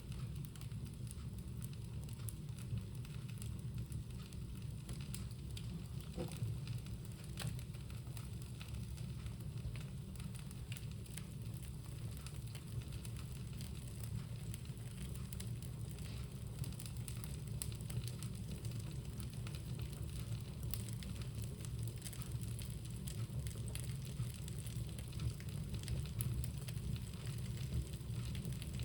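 Bonfire burning, with scattered crackles and pops over a steady low rumble.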